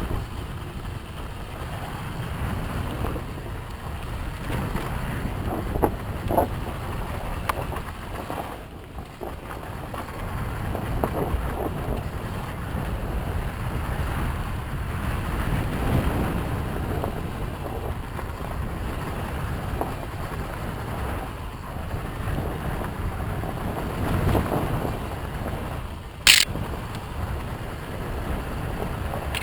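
Yamaha YZ250FX four-stroke single-cylinder dirt bike running on a trail, heard through heavy wind noise on the microphone. There is a brief sharp high-pitched sound near the end.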